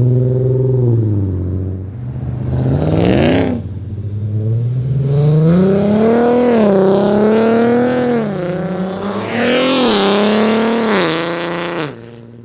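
Car engine revving and accelerating, loud, its pitch climbing and dropping several times, then cutting off abruptly near the end.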